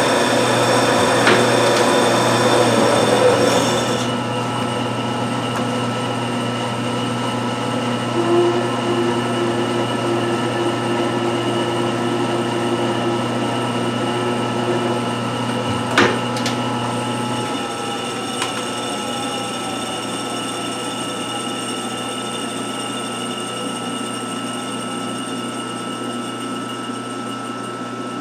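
1952 Wade 7 turret lathe running steadily while machining a part, with a rougher cutting noise over the first few seconds and a sharp click about sixteen seconds in. A low hum drops out a little after that while the machine keeps running.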